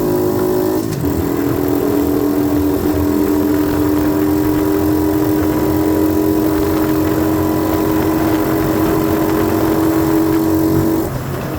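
90cc dirt bike engine running at steady revs while riding, with a brief shift in pitch about a second in. Near the end the revs drop as the throttle closes.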